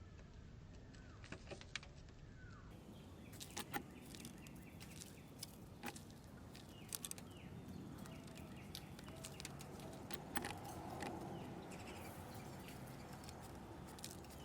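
Small birds at a backyard feeder chirping now and then over a steady outdoor background noise, with many scattered sharp clicks and taps.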